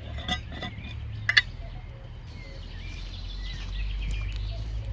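Birds chirping outdoors over a steady low rumble, with a few sharp clicks in the first second and a half, the loudest about a second and a half in.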